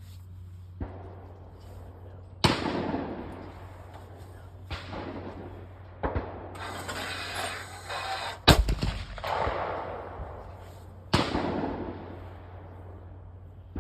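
A series of about six sharp bangs, a second or two apart, each trailing off in a long echo. The loudest comes a little past the middle.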